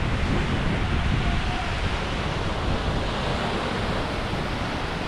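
Sea waves washing onto a beach in a steady surf, with wind rumbling on the microphone.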